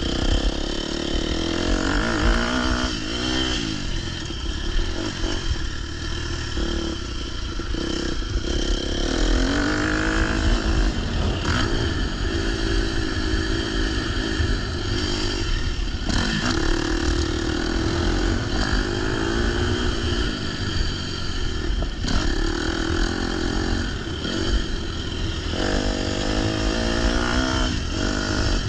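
Motocross dirt bike engine being ridden hard, revving up and dropping back again and again as the throttle is opened and closed, over heavy low wind rumble on the microphone.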